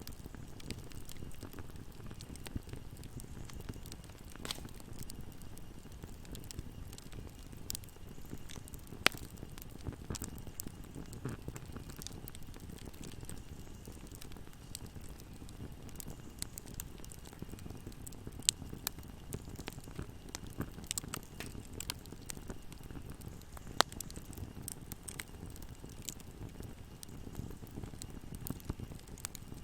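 Wood fire burning in a fireplace: a steady low rumble of flames with scattered crackles, and a few louder, sharper pops.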